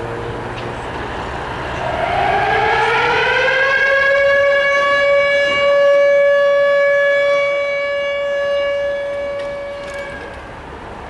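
A siren winds up over about three seconds to a steady held tone, sounds for about six seconds, then dies away near the end.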